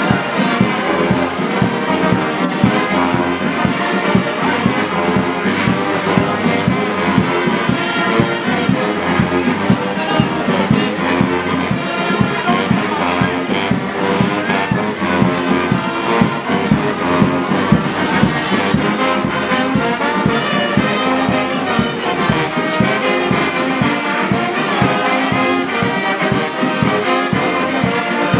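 Brass band playing steadily, its music carrying through without a pause.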